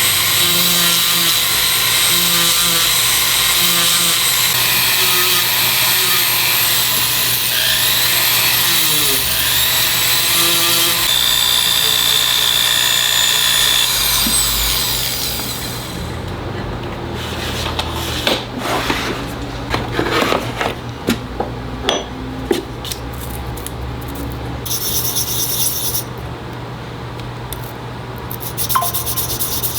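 A jeweller's high-speed rotary tool working a metal ring, its whine rising and falling with the load, stops about halfway. After that come separate scraping strokes on the metal and a few short high-pitched bursts from the tool.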